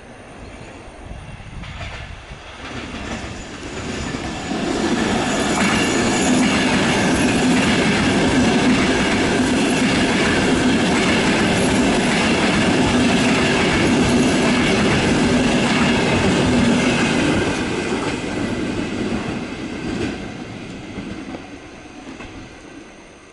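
A Pendolino-family tilting electric multiple unit passing through a station at speed, its wheels running over the rails and points. The sound builds over the first few seconds, stays loud and steady for about twelve seconds, then fades as the train goes by.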